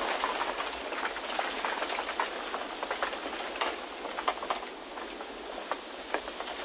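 Wind blowing as a steady rushing hiss, with irregular light ticks and crackles scattered through it.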